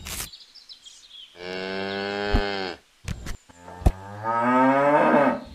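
Two long cow moos, the first sagging slightly in pitch and the second rising, with a few sharp clicks at the start and between them.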